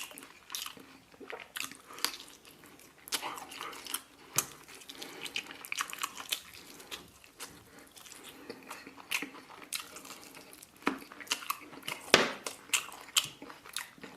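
A person eating close to the microphone: wet chewing and smacking with many irregular sharp clicks.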